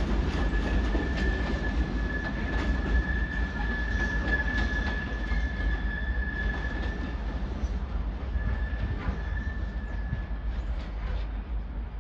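Slow-moving engineering train of open box wagons and a yellow track maintenance machine rolling by with a low rumble, its wheels giving a steady high squeal that breaks off briefly about seven seconds in and stops near the end. Occasional clicks come from the wheels passing over rail joints and points.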